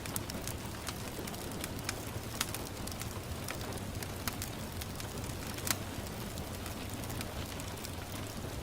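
Wood fire in a fireplace burning steadily with a constant hiss and irregular sharp crackles and pops, the loudest pop about six seconds in.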